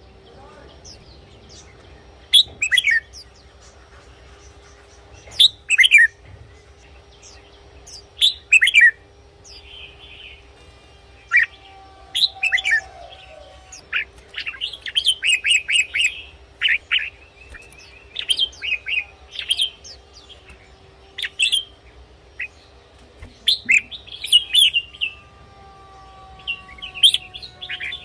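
Red-whiskered bulbul singing: short, bright whistled phrases every few seconds, turning into a busier run of chirps in the middle and again near the end.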